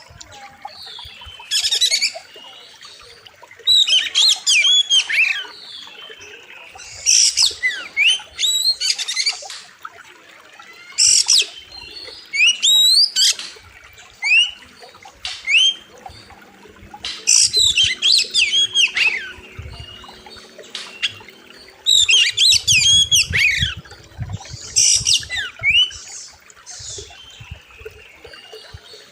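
Oriental magpie-robin singing loud bursts of rapid, sweeping whistled notes every second or two, the 'full isian' song packed with varied phrases. A run of low thumps comes about three-quarters of the way through.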